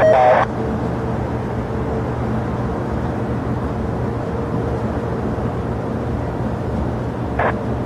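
Steady, even rumble of jet aircraft engines with a constant low hum, broken briefly at the start and near the end by air traffic control radio transmissions.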